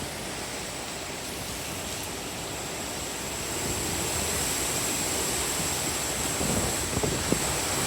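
Steady rush of hurricane wind and rain, with wind buffeting the microphone. It grows a little louder about halfway through, and irregular crackles come in near the end.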